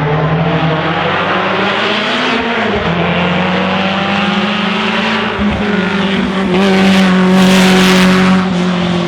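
A historic racing car's engine running hard under acceleration. The pitch rises, drops at a gear change about two and a half seconds in, then climbs again, and the car is loudest as it passes close about seven to eight seconds in.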